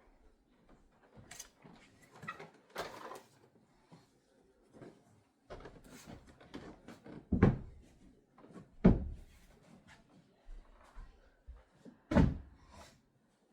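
Scattered knocks and light clatter of things being handled, with three louder thumps: one about halfway through, another a second and a half later, and one near the end.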